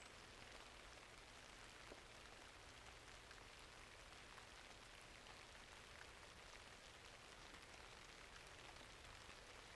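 Faint, steady rainfall with scattered small ticks and crackles, as from a fireplace burning alongside the rain.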